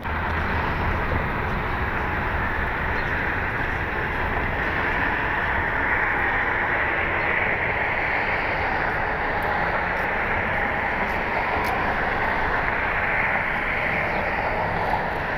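Jet airliner engines giving a steady, loud rush with a low rumble beneath, swelling slightly in the middle.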